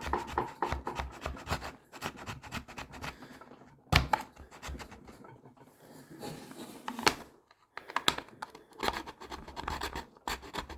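A metal file rasping back and forth on a hard plastic case in runs of quick strokes, widening a cutout, with short pauses and two sharp knocks about four and seven seconds in.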